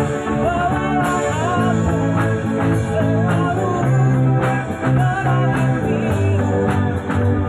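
Rock band playing live: guitar, bass and drums, with a melody line that bends and wavers in pitch over a steady beat.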